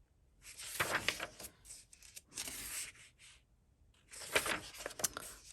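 Paper pages of a coloring book being turned, three rustling page flips in a row.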